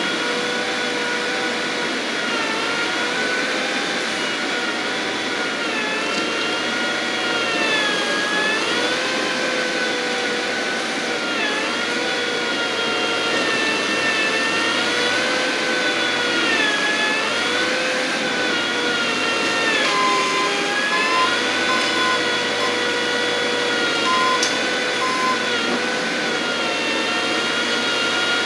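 Skid-steer loader's engine working steadily, its pitch dipping and recovering again and again as it takes and sheds load. A backup alarm beeps intermittently in the last third.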